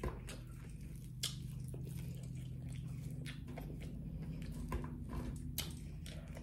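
Close-up chewing and biting of fried pork chops, with a few sharp crunches of the crispy breading. Underneath runs a steady low hum from a neighbor's lawnmower.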